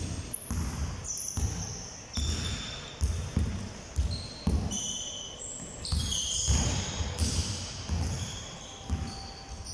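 Basketballs bouncing on a hard indoor court: irregular repeated thuds about twice a second, mixed with short high squeaks.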